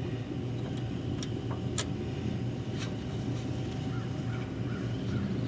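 Steady low hum of a workshop with a few faint, short clicks of parts being handled, about three in the first three seconds.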